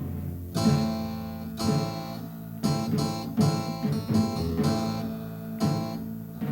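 Acoustic guitar strumming chords as part of gospel music, with a strong stroke about once a second and the chords ringing between strokes.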